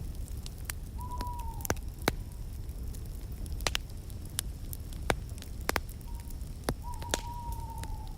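Wood fire in a fireplace burning with a steady low rumble and sharp crackles and pops. Twice a thin whistle sounds from the fire, dropping slightly in pitch; the second one is the longer.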